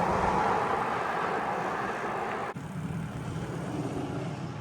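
Steady rushing noise of wind and rolling tyres while riding a bicycle, slowly fading, dropping abruptly to a quieter level about halfway through.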